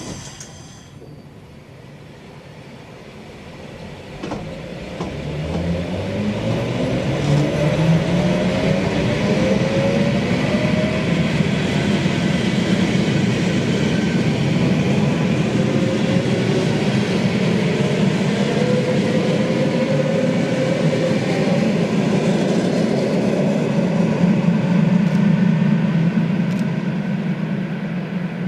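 ЭП2Д electric multiple unit pulling away: the whine of its traction drive rises in pitch for a few seconds as it speeds up. It then settles into a loud, steady running sound with rail rumble.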